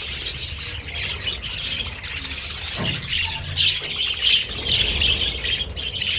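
Budgerigars chattering and squawking: a dense, continuous stream of short, high, overlapping calls from several birds at once.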